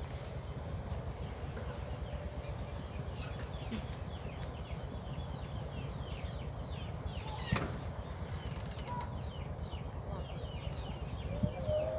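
Small birds chirping in a rapid run of short falling notes from about three seconds in, with one longer falling call midway, over a steady low rumble.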